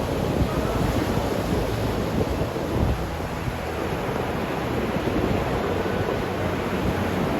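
Ocean surf breaking steadily, with gusty wind buffeting the microphone.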